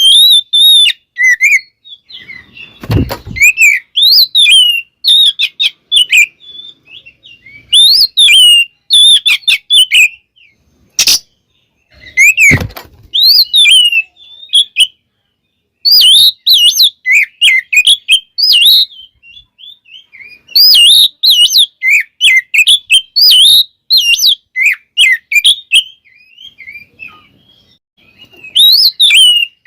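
Oriental magpie-robin (kacer) singing loud, varied song phrases of quick whistled notes that rise and fall, in bursts with short pauses between them, its song full of mimicked calls. Three sharp knocks sound among the phrases, about three seconds in and twice more after about eleven seconds.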